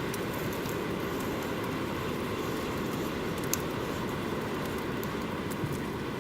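Campfire burning with a steady rushing noise and scattered sharp crackles and pops from the burning wood.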